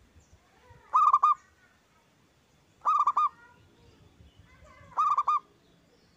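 Zebra dove (perkutut) cooing loudly: three phrases about two seconds apart, each a quick run of four or five ringing notes.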